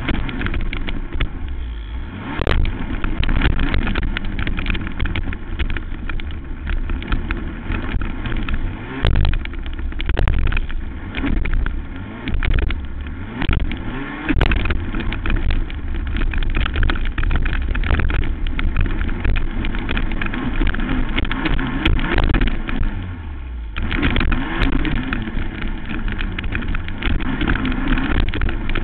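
Racing quad engine revving up and down hard through a race lap, with many short knocks throughout and a brief drop in engine noise a little before the end.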